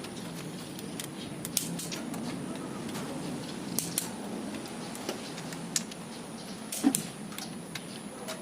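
Scattered light metallic clicks and taps of hand tools and bolts on an engine's cylinder head being fitted, the loudest a little before seven seconds in, over a steady low hum.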